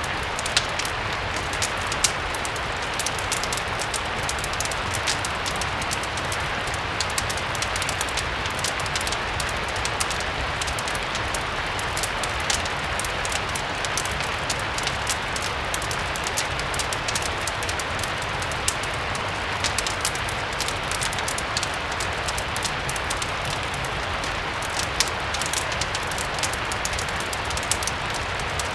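Steady rain, an even hiss, with the irregular sharp pops and crackles of a wood fire burning in a fireplace scattered over it.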